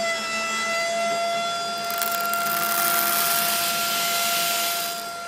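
Wheat grain sliding out of a tipping model trailer and pouring into a plastic hopper: a rushing hiss starting about two seconds in. It lies over a steady high-pitched whine.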